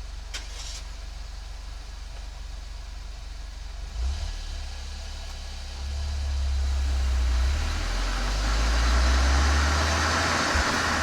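Volkswagen Golf 7 GTI's turbocharged four-cylinder heard through a Cox aftermarket muffler and chamber. It runs low and steady at first, picks up briefly about four seconds in, then gets steadily louder from about six seconds on as engine speed rises.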